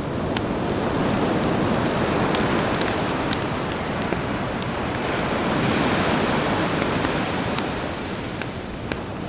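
Sea waves washing in and easing back, swelling twice, with a campfire crackling over the surf: scattered sharp pops and snaps.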